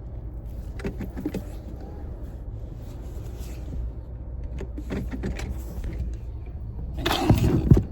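Car engine idling, a steady low rumble heard from inside the cabin, with a few light clicks of handling. Near the end a short, loud rustling burst.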